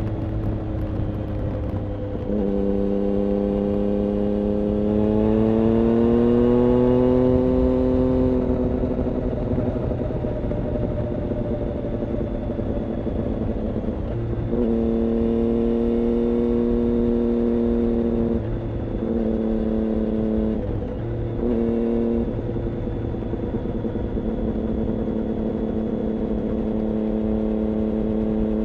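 2006 Triumph Daytona 675's 675 cc inline-three engine running through an IXIL aftermarket exhaust at raised revs. The pitch climbs a few seconds in and eases back, then holds steady, and past the middle it cuts in and out briefly a few times before settling again.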